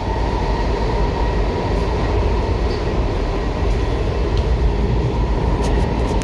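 Washington Metro railcar running at speed, heard from inside the car: a steady rumble of wheels on track with a thin, steady whine running through it.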